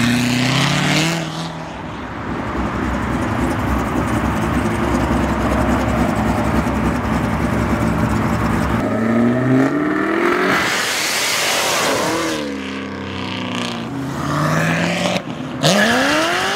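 Performance car engines revving and accelerating hard as cars pull away, pitch climbing through the gears into a loud exhaust peak about ten seconds in, then falling away. Another engine revs up near the end.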